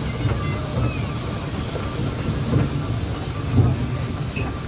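Steam train running on the line: a low, uneven rumble with steam hissing.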